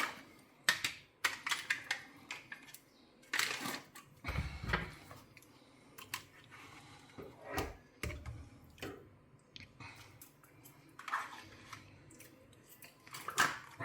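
Scattered kitchen handling sounds: short clicks and rustles of packaging and utensils, with a couple of dull knocks.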